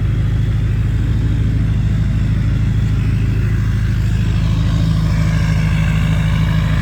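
LLY Duramax 6.6-litre V8 turbodiesel idling steadily just after a cold start at −2°F, started easily after one cycle of the glow plugs. A faint higher whine comes in about five seconds in.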